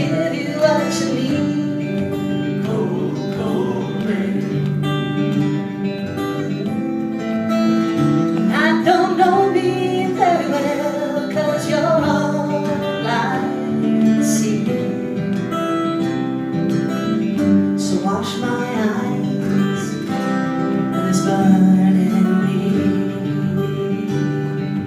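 Live song: an acoustic guitar strumming steady chords, with a melody line that bends up and down in pitch now and then over it.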